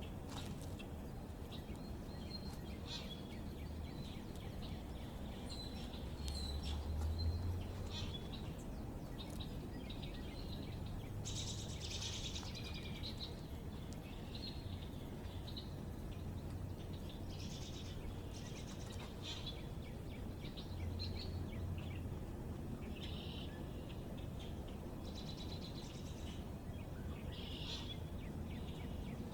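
Small backyard birds chirping and calling in short, scattered bursts, over a steady low background rumble that swells briefly about seven seconds in.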